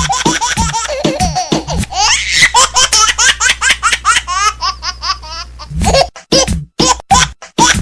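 People laughing hard in quick repeated bursts, over background music.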